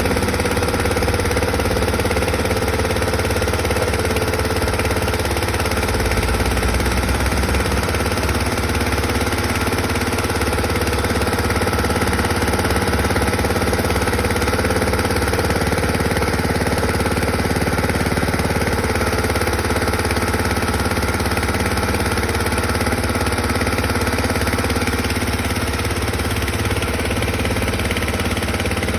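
Motorbike-wash pressure washer ('steam') machine running steadily, with an even mechanical hum.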